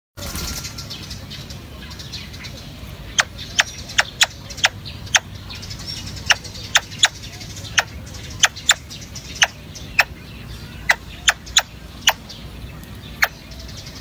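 A bird's short, sharp call notes, about twenty single notes at irregular spacing starting about three seconds in.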